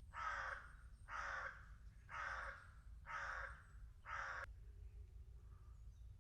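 A crow cawing five times, about one caw a second, each caw a harsh call about half a second long.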